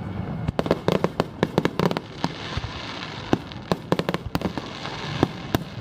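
Fireworks display: a quick series of sharp bangs and crackles. The bursts are densest from about half a second to two seconds in and again in the last couple of seconds.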